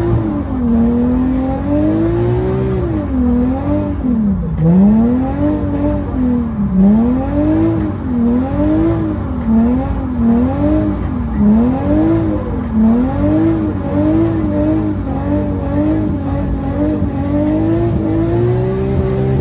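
Nissan GT-R engine revving up and down over and over, the pitch swinging about once a second as the throttle is worked to keep the car sliding through wet corners, heard from inside the cabin. Near the end it settles into a steadier climb.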